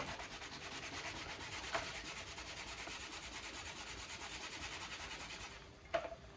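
Spoon scraping fast and steadily around a cooking pot as a stew is stirred. It stops near the end, followed by a single knock.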